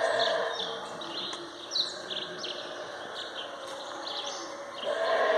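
Howler monkeys calling, a deep, rough, drawn-out roar that fades out about half a second in and swells back near the end. In between, birds chirp over a steady insect drone.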